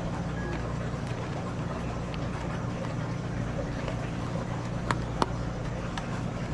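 Car engine idling, a steady low hum, with two short sharp clicks about five seconds in.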